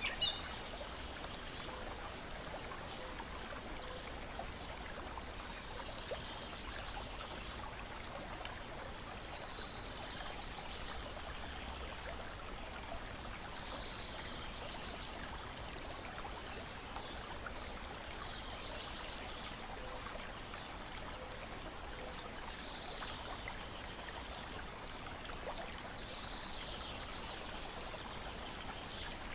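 Small lake waves lapping and splashing against the shore and a wooden deck, a soft wash of water arriving every few seconds over a steady watery hiss. A few sharp clicks stand out near the start.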